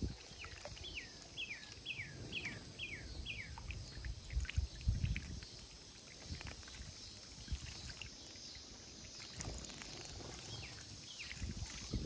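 A songbird singing: a quick run of about eight clear, down-slurred whistled notes in the first few seconds, then two more near the end, over low rumbling and thumps.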